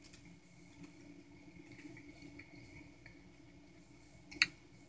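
Quiet chewing of food over a faint steady room hum, with one sharp click about four and a half seconds in.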